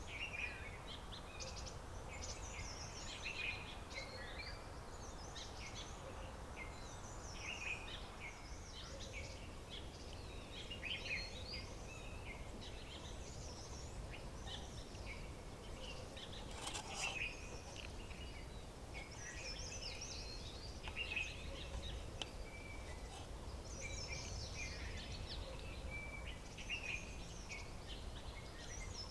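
Several birds chirping and calling, with many short, overlapping notes throughout, over a steady low outdoor background noise.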